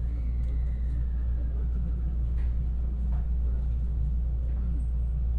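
Steady low rumble and hum inside the carriage of a 223 series electric train as it starts to pull away from a station, with a faint tone that falls slowly in the first couple of seconds.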